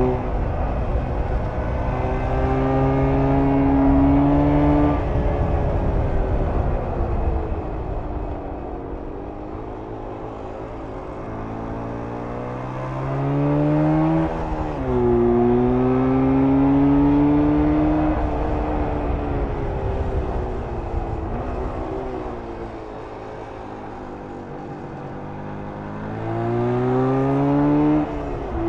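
1994 Jawa 350 type 638's air-cooled two-stroke parallel twin under way: revs climb under throttle, drop sharply about five seconds in and again about fourteen seconds in, fall away slowly as it eases off, and climb again near the end.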